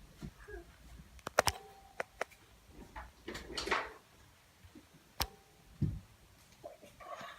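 A cluster of sharp clicks and knocks, a brief rustling swish, another click and a low thump, like objects being handled or a door or drawer being moved.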